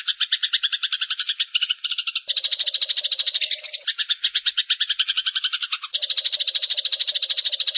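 Eurasian tree sparrows chattering in a dense, unbroken run of harsh chirps, about ten a second: the agitated calls of sparrows fighting. The chatter changes in texture about two seconds in and again about six seconds in.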